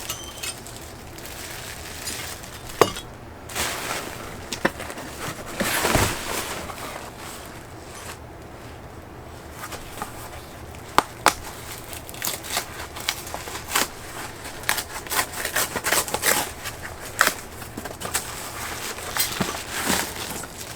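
Packaging being handled while a boxed item is unpacked: crinkling and crackling with scattered light clicks and knocks, a longer rustle about six seconds in, and a busier run of clicks in the second half.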